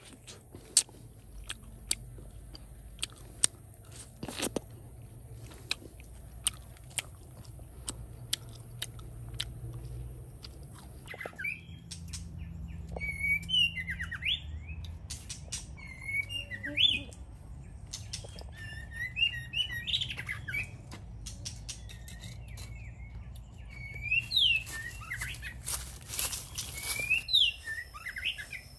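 Birds chirping in short calls that glide up and down, repeating from about a third of the way in. Before that, a run of sharp clicks over a low steady rumble.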